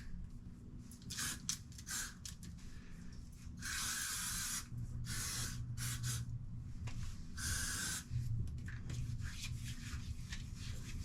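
Aerosol spray sunscreen being sprayed on in several hissing bursts, the longest about a second.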